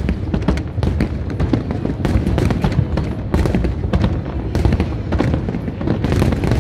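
Aerial fireworks bursting in a dense, rapid barrage: many sharp bangs and crackles overlapping on a continuous low rumble, with music playing along.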